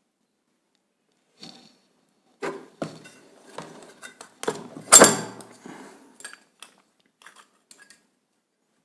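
Metal clinks and knocks as the rotor is pulled out of an old washing machine motor's housing. The loudest knock comes about five seconds in.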